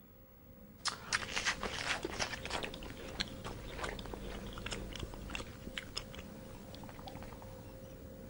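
An animal chewing crunchy food: a steady run of crisp crunching clicks that begins about a second in.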